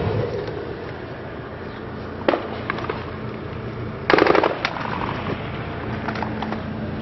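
Gunfire: a single sharp shot about two seconds in, then a short burst of rapid automatic fire lasting about half a second a little after four seconds, with a few fainter shots after it.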